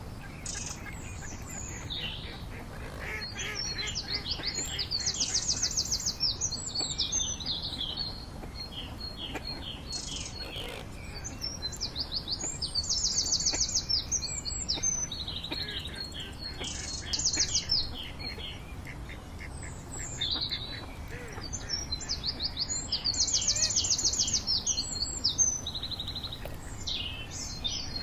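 A songbird singing long, complex songs with rapid trills, three times about nine seconds apart, with softer chirps between.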